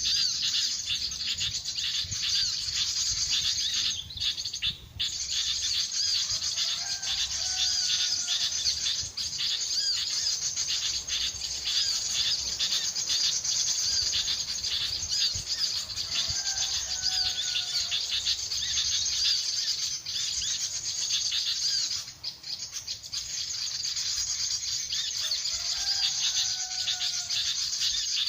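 Dense, continuous high-pitched chirping of birds. A short falling whistled call repeats about every ten seconds over it.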